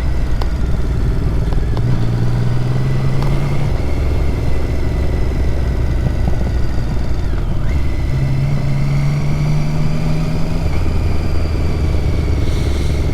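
Motorcycle engine running under way, its note shifting in pitch a few times, with wind rush on the microphone.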